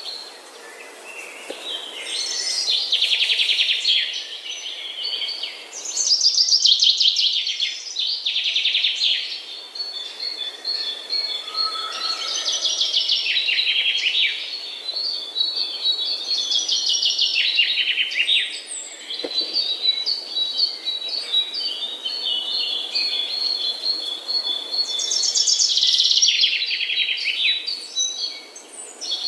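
A flock of birds chirping and calling together in a dense, continuous chorus of rapid trills and repeated high chirps. It swells loudest about six seconds in and again near the end.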